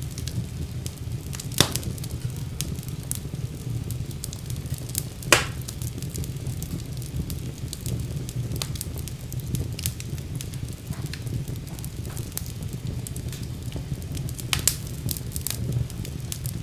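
Fire burning in a fireplace, with a steady low rumble and many small crackles. Three louder sharp pops come about a second and a half in, about five seconds in, and near the end.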